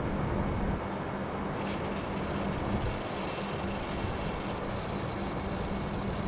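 Aerosol engine-cleaner can hissing as it is sprayed through a hose into the intake manifold of an engine that is switched off. The hiss starts about a second and a half in, over a steady background rumble.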